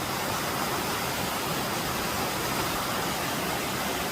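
Steady rush of a waterfall and creek rapids, an even hiss of falling water without breaks.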